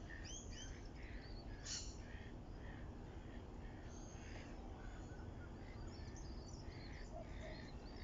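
Several wild birds calling in the trees: short repeated chirps and quick rising notes, one sharper call just under two seconds in, over a steady low background hiss.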